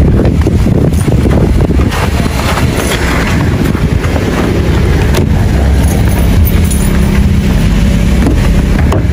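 Car running on the road, a loud, steady low rumble of engine and road noise.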